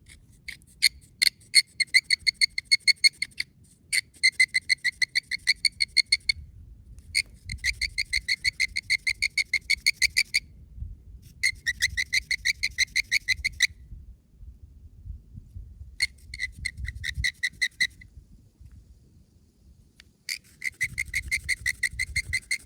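Homemade friction bird call, a stick whittled to a chisel point rubbed on a flat rock, squeaking out quick runs of high chirps, several a second. It plays about six runs of a few seconds each, with short pauses between.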